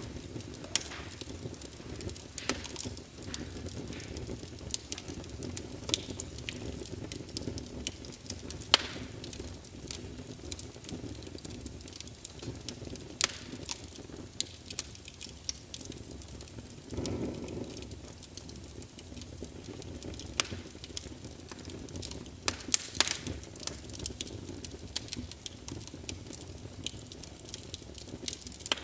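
Wood fire crackling, with irregular sharp pops over a low steady rumble of flames and a brief louder rush about two-thirds of the way through.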